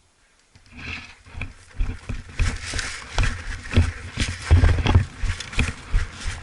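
Quick footsteps, about two a second, with clothing and gear rustling close by. They start about half a second in.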